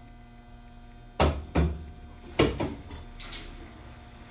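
Steady low hum of a stopped train car's onboard equipment, with about four dull knocks or thumps inside the car, bunched over a second and a half in the middle.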